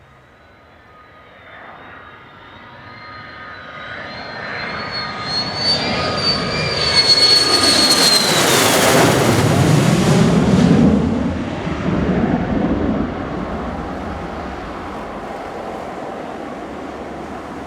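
Military jet aircraft on landing approach flying past: a high turbine whine and roar grow louder, the whine drops in pitch as the jet passes about eight seconds in, and a deep rumble then fades away.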